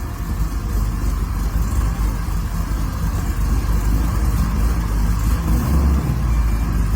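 Car engine running with a steady low rumble, briefly louder a little before the six-second mark.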